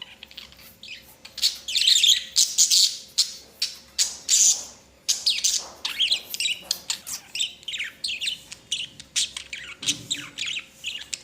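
Budgerigars chirping and chattering in a quick, irregular string of short calls.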